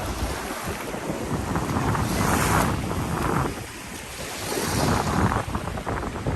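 Sea waves washing in at the shoreline, swelling louder twice, about two and five seconds in, with wind rumbling on the microphone.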